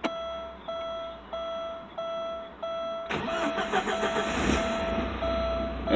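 A dashboard warning chime beeps steadily, about one and a half times a second. About three seconds in, the starter cranks the 1988 Porsche 944's four-cylinder engine, which catches about a second later and keeps running. This is its first start after some ten years standing.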